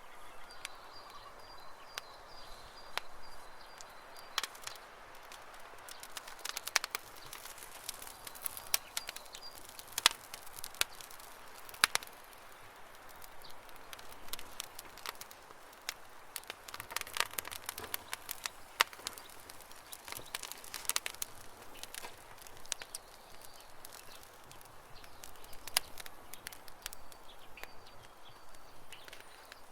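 Campfire crackling, with irregular sharp pops and snaps over a faint hiss. Birds chirp faintly in the background, most clearly in the first few seconds and near the end.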